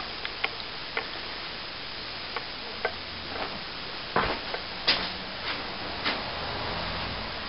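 Scattered light clicks and taps over a steady background hiss, with a louder pair about four and five seconds in.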